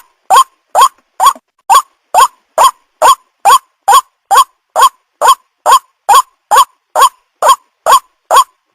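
White-breasted waterhen call used as a bird lure: one short 'kwak' note repeated at a steady, even pace, a little over two a second, each note bending briefly around the same middle pitch.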